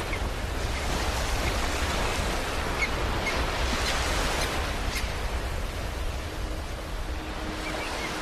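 Ocean waves washing onto a beach: one surge swells and then recedes and thins out. Near the end a steady, low musical tone fades in underneath.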